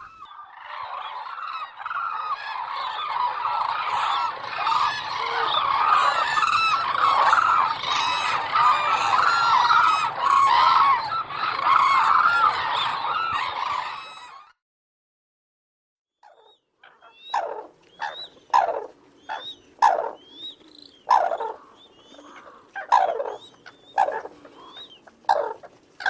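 A flock of common cranes calling together, a dense chorus of many overlapping calls that stops abruptly about halfway through. After a short silence, single crane calls follow one at a time, about ten of them, spaced a second or so apart.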